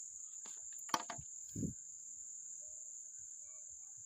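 Steady high-pitched chirring of insects, with a few sharp clicks about a second in and a short low thump just after.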